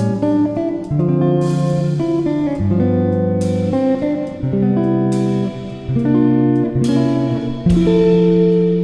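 Background music: a guitar playing plucked notes and chords, a new chord about every second.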